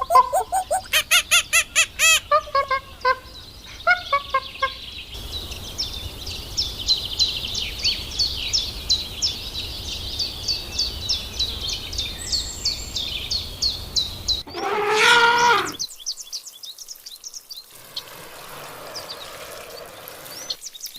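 Birds and fowl calling: a quick series of pitched calls, then a long run of short high chirps, with one loud drawn-out call near the three-quarter mark.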